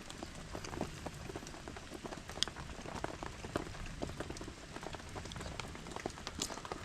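Rain pattering steadily, many drops ticking irregularly. Two sharp pops stand out, about two and a half seconds in and near the end.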